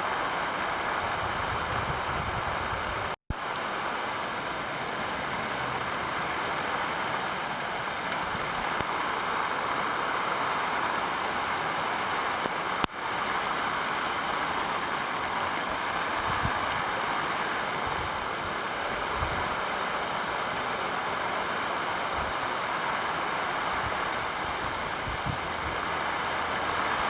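Heavy rain pouring steadily, an even hiss of water. The sound cuts out for an instant about three seconds in.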